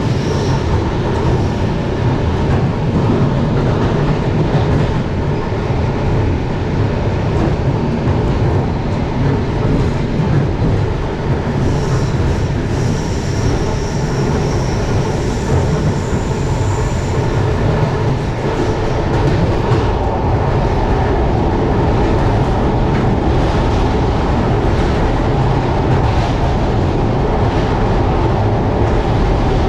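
Passenger train running along the line, heard from inside the carriage: a steady rumble of the wheels on the rails with the clatter of rail joints. A thin high whine comes in about twelve seconds in and fades after about five seconds.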